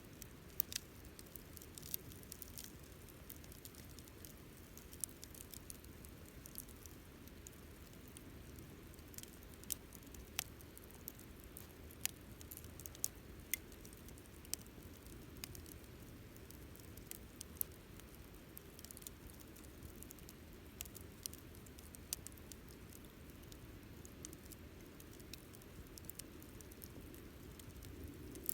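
Wood campfire crackling, with frequent irregular sharp snaps and pops over a faint low rumble of the burning fire.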